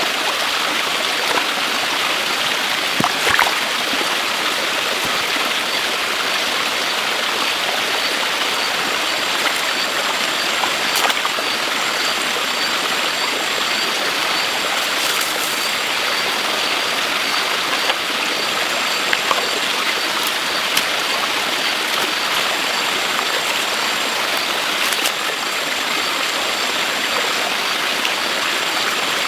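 Steady rushing of running water, like a stream, with a few brief sharp clicks or knocks scattered through it.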